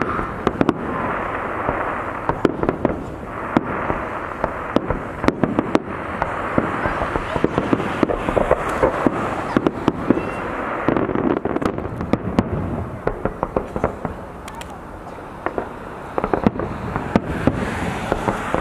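Fireworks display: aerial shells bursting one after another, a dense run of sharp bangs over a continuous wash of crackle and rumble, with a brief lighter patch about three-quarters of the way through.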